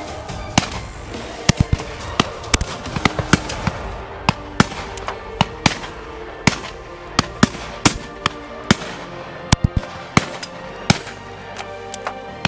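Shotguns firing over and over from a line of guns at a driven pheasant drive, about two dozen shots of varying loudness, some close and many further off, at irregular spacing. Background music plays under the shooting.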